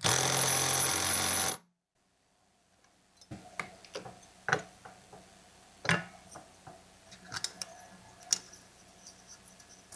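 An impact wrench runs for about a second and a half, tightening the flywheel nut on a chainsaw engine, then cuts off abruptly. After a short silence come scattered light clicks and taps of small metal parts being handled.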